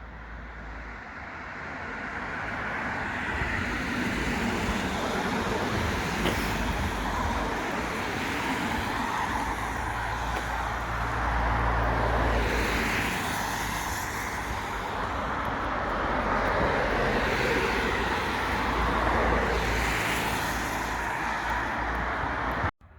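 Road traffic: cars passing one after another, each swelling and fading over a steady rumble. It cuts off suddenly near the end.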